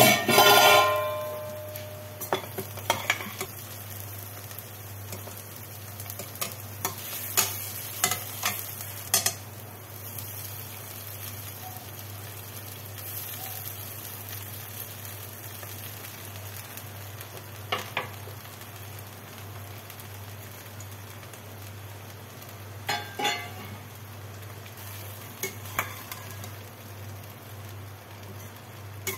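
Vegetables and soaked poha frying gently in a stainless steel pan while being stirred, with scattered clinks of a perforated steel ladle against the pan. A loud, ringing metal clang sounds at the very start.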